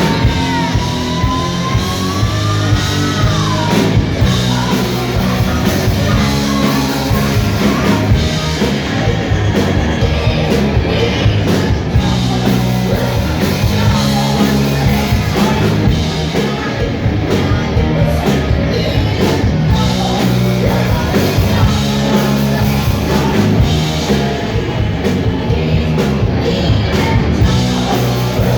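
Live hard-rock band playing at full volume: electric guitars, bass and drums with singing. A held note slides up in pitch in the first few seconds.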